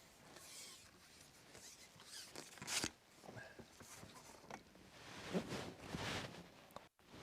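Handling noises close to the microphone: soft rustling and scattered clicks, with one sharp click about three seconds in and a louder stretch of rustling near the end.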